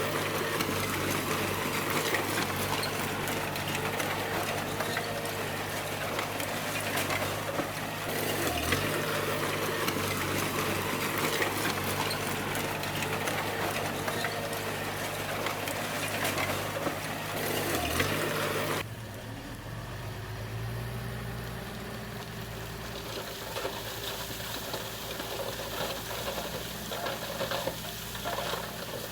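Bulldozer's diesel engine running steadily under a dense rattle and hiss of the work. The engine note dips briefly twice. About two-thirds of the way through, the sound changes abruptly to a quieter, lower engine hum with much less hiss.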